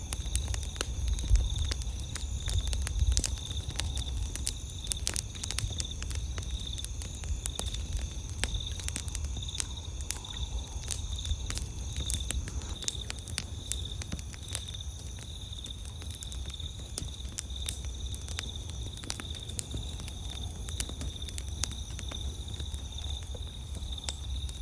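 Campfire crackling, with many irregular sharp pops and snaps over a low rumble. Insects trill steadily in the night background.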